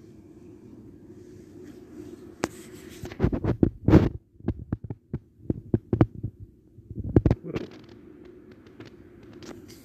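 A steady low hum, with a run of sharp knocks and thumps in the middle, loudest about four seconds in and again about seven seconds in.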